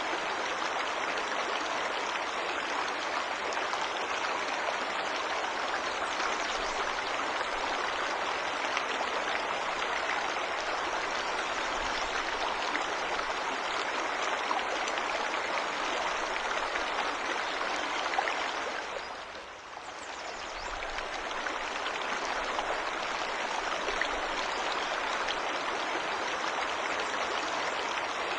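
Waterfall in a forest: a steady rush of falling and flowing water. About two-thirds of the way in, it briefly fades down and swells back up.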